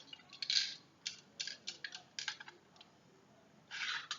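Walther PPQ full-metal spring airsoft pistol being handled: a run of short, irregular metal clicks and sliding sounds, with a longer scrape near the end.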